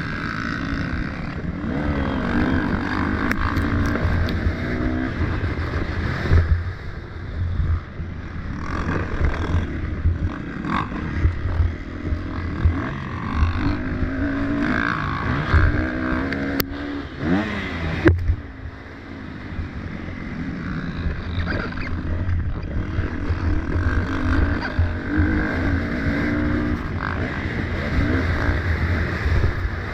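Motocross dirt bike engines revving up and down as they race, the pitch rising and falling with the throttle over a steady low rumble. Two sharp clicks come a little past the middle.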